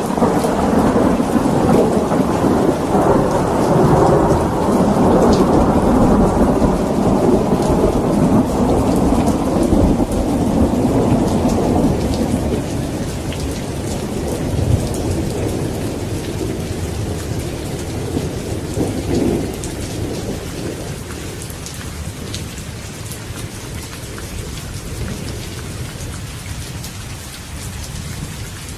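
Steady rain falling, with a long roll of thunder that rumbles loudest in the first ten seconds or so and slowly fades away by about two-thirds of the way through.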